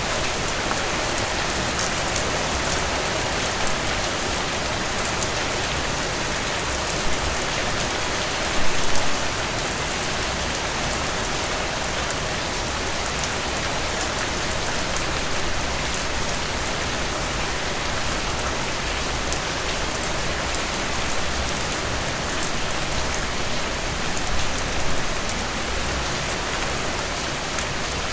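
Steady rainfall: a dense, even hiss of falling rain with the fine crackle of many single drops striking a surface, with a few brief louder moments about nine seconds in and again near the end.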